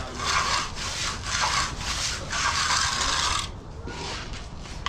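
A concrete finishing tool scraping across fresh concrete in repeated rasping strokes, about four of them, stopping about three and a half seconds in.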